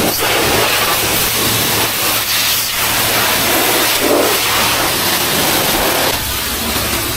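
High-pressure spray wand at a coin-operated self-service car wash blasting water onto a car, a loud steady hiss that shifts as the jet moves over the bodywork and eases slightly about six seconds in.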